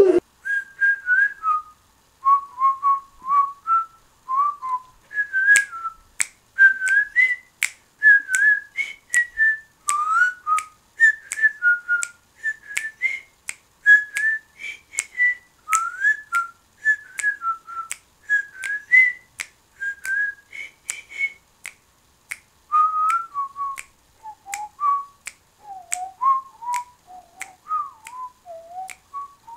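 A person whistling a tune, with finger snaps keeping a steady beat of about two a second; the snaps join a few seconds in.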